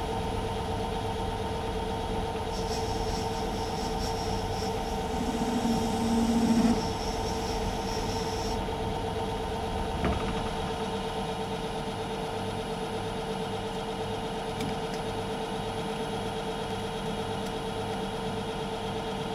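Myford metal lathe running steadily with a constant motor hum. A high whine joins for several seconds in the first half, and there is a single click about ten seconds in.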